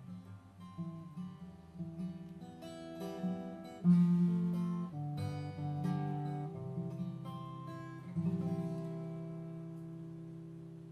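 Acoustic guitar playing the closing instrumental phrase of a folk song, picked notes and strummed chords. A final chord about eight seconds in rings out and slowly dies away.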